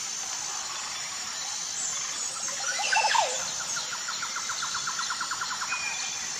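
Jungle birds calling over a steady high insect drone: a loud burst of sweeping calls about three seconds in, followed by a rapid, even run of short repeated notes that stops near the end.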